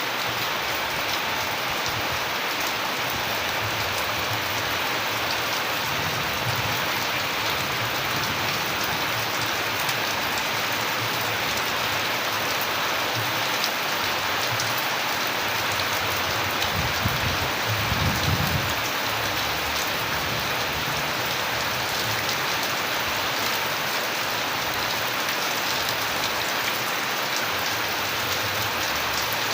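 Steady heavy rain falling and pattering on surfaces, with a brief low rumble about two-thirds of the way through.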